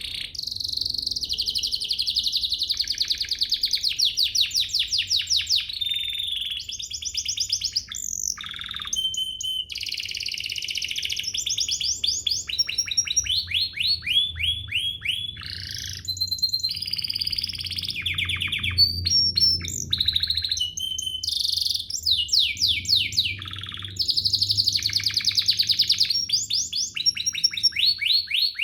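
Domestic canary singing a long unbroken song of fast trills and rolls, high-pitched, switching to a new phrase every second or two.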